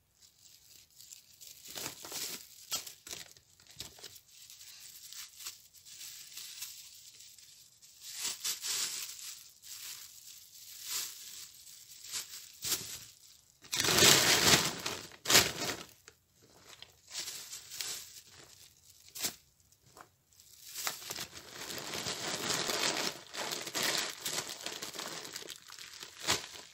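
Thin plastic bags crinkling and rustling in irregular bursts as lumps of coal are packed into them, loudest about halfway through.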